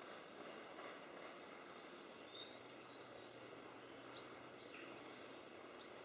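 Faint, scattered short high chirps of small woodland birds calling, over a steady quiet hiss of outdoor background.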